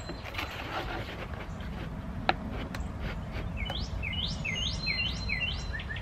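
A songbird outdoors gives a run of about five rising chirps, about two a second, in the second half. Earlier a single sharp click stands out, the loudest sound, over a steady low background rumble.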